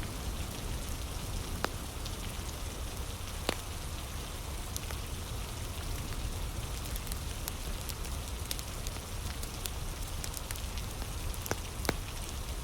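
Steady heavy rain, with a few sharp crackles and pops from a wood fire scattered through it.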